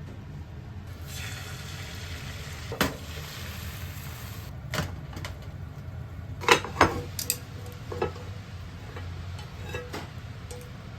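Household sounds: a hiss for a few seconds near the start, then a scatter of sharp knocks and clicks, loudest in a quick cluster a little past the middle, over a steady low hum.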